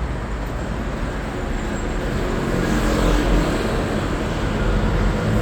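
Road traffic noise: a steady rumble of passing vehicles, growing a little louder near the end.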